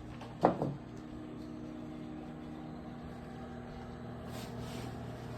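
Microwave oven running with a steady hum while it heats a bag of microwave popcorn. A single loud clunk about half a second in.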